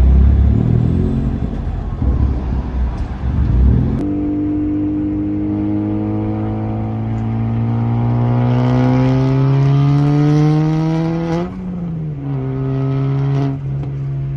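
Built Volkswagen Jetta Mk4's engine under way. It rumbles roughly at first, then pulls with a steady note that climbs slowly in pitch as it accelerates. The note drops sharply about eleven seconds in, as at a gear change or lift-off, then holds steady.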